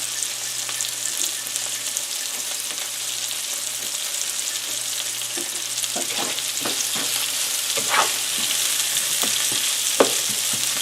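Sliced onions sizzling in olive oil in a frying pan. From about halfway through come clicks and scrapes of a utensil against the pan, with one sharper knock near the end.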